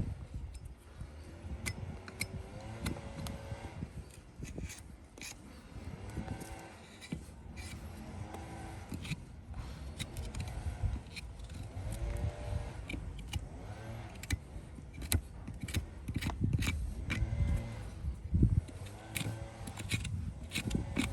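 Farrier's hand tools working a horse's hoof: irregular sharp metallic clicks and scraping, mixed with short squeaky pitched sounds and a low rumble.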